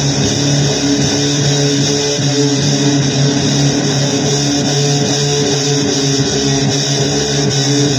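Noisy blues on electric guitar: a dense, distorted wash over held low notes that never breaks.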